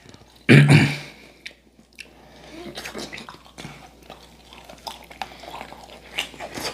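People eating fried chicken: chewing, with scattered small clicks of chopsticks and dishes. A short vocal sound from one of the eaters comes about half a second in and is the loudest thing.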